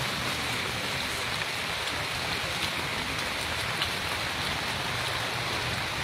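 Heavy rain falling steadily, an even hiss with scattered drops tapping.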